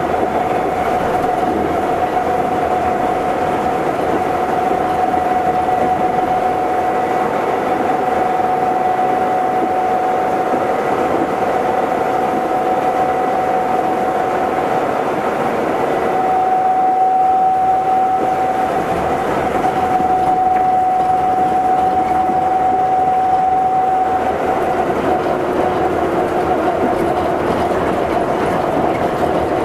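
Astram Line 7000 series rubber-tyred automated guideway train running, heard from inside the car: a steady drive whine over the running noise. About twenty-four seconds in, the whine changes and a lower tone joins it.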